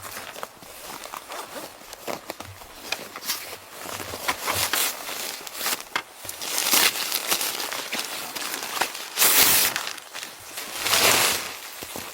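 Crinkling and rustling of material being handled, with many small clicks and three louder swishes in the second half.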